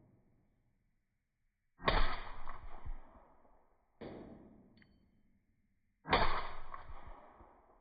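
Suppressed 6.5 Grendel AR-15 with a 12.5-inch barrel firing three shots about two seconds apart, two loud reports with a fainter one between, each tailing off over about a second.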